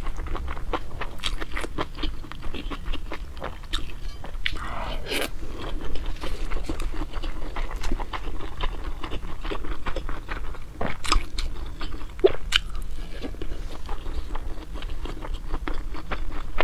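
A person chewing and biting food close to a clip-on microphone, with a dense, uneven run of sharp small clicks.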